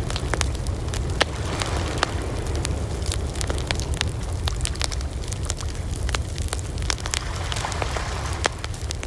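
Wood fire burning: a steady low rumble with frequent, irregular sharp crackles and pops, a few louder snaps among them.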